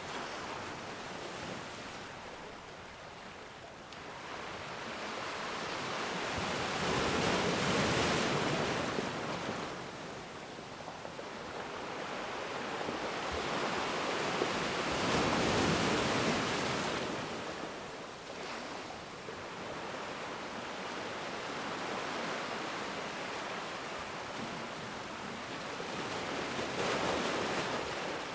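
Ocean waves breaking and washing on a shore, a steady rush of surf that swells three times, about seven to twelve seconds apart, and ebbs between.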